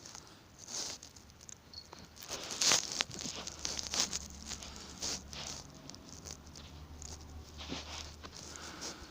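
A cat scuffling with a person's hand: irregular soft pats, rustles and scratches, with a faint low hum from about four seconds in.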